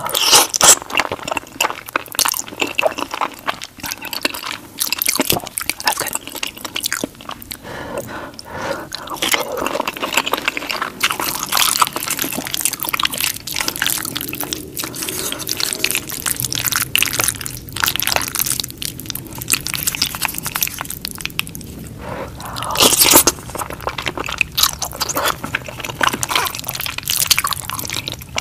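Wet chewing and sticky mouth sounds of eating creamy white-sauce pasta with shrimp, a dense run of small wet clicks and squishes.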